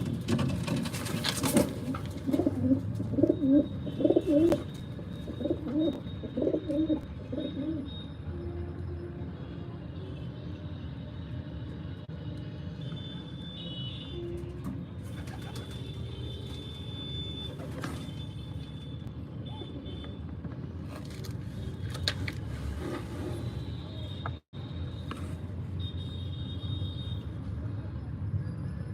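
Pigeons cooing in repeated low calls for roughly the first eight seconds, with small birds chirping in high, short calls throughout.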